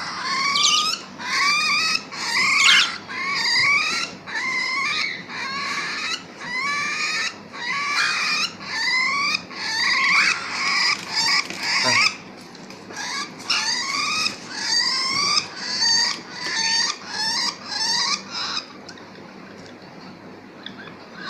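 A hand-fed parrot chick giving food-begging calls: a rapid series of short, raspy rising chirps, about two a second. The calls stop a few seconds before the end.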